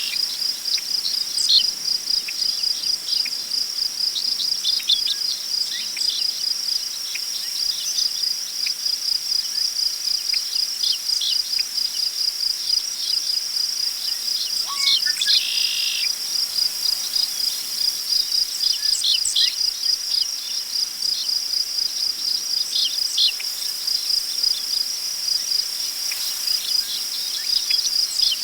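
Continuous cricket chorus, a steady fast-pulsing high trill, with scattered short bird chirps and a buzzy bird call about halfway through, over a faint rustle of wind in tall prairie grass.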